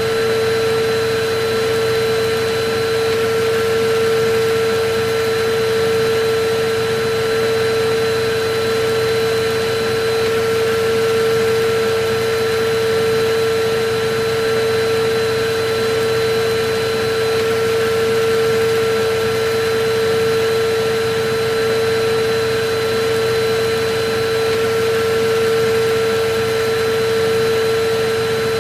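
Electric vacuum cleaner running steadily: an even rush of air with a constant hum from the motor.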